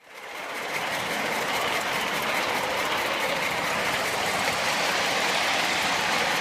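Live-steam scale locomotive running on the track, a steady noise that fades in over the first second.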